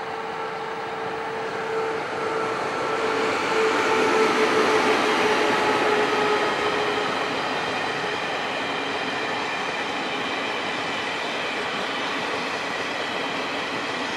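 Taiwan Railways E1000 push-pull express passing on the rails. A steady whine from the electric power car fades out about halfway through. The rolling noise of the passenger cars' wheels on the track is loudest around four to five seconds in, then carries on steadily.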